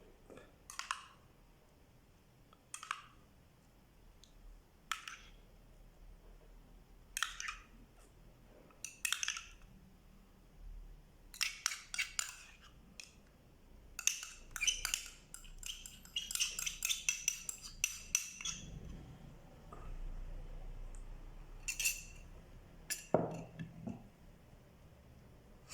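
Kitchen utensils and dishes clinking and tapping while a fish tagine is put together. Single clinks come every couple of seconds at first, then a busy run of rapid clattering about halfway through, and a few more clinks near the end.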